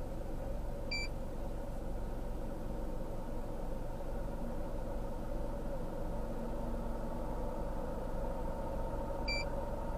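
Steady low engine hum of an idling vehicle, with two short high electronic beeps, one about a second in and one near the end.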